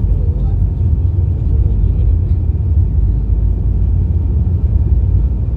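Airbus A319 cabin noise heard from a passenger seat: a steady low rumble of the jet and airframe, with a faint thin steady whine above it.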